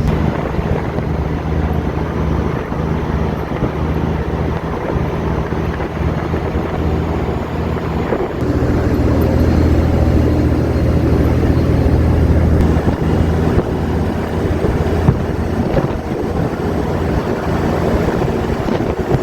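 Semi truck driving, heard from inside the cab: a steady diesel engine drone over road and tyre noise. The engine note changes about eight seconds in, then holds steady.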